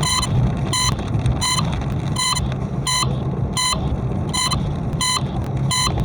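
Car engine and road noise heard inside the cabin, with a short electronic warning beep repeating evenly about every three quarters of a second.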